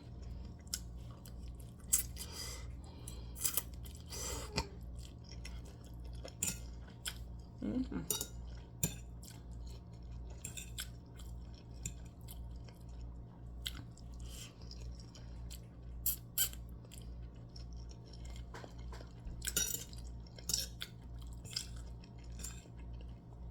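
Scattered small clicks and clinks of kitchen utensils and dishes being handled, over a steady low hum that pulses about twice a second.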